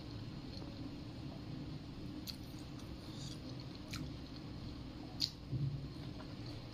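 Close mouth sounds of a person eating orange segments: wet squishing and chewing with a few sharp lip smacks, the loudest a little after five seconds in.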